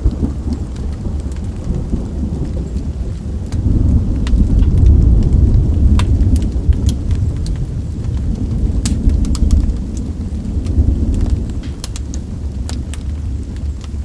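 Steady rain with a long rumble of thunder that swells about four seconds in and fades after about eleven seconds, mixed with the sharp crackles and pops of a wood fire.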